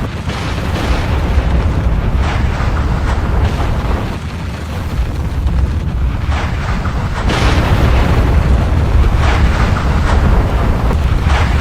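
Volcanic eruption: a steady deep rumble with surges of louder rushing noise every few seconds.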